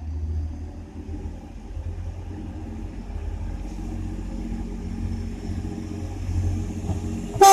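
Class 185 diesel multiple unit running with a steady low rumble while it stands ready to depart. A loud train horn starts right at the very end.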